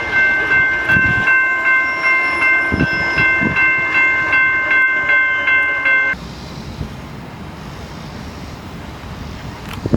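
Locomotive horn sounding one long, steady chord that cuts off abruptly about six seconds in, followed by the noise of a train running past.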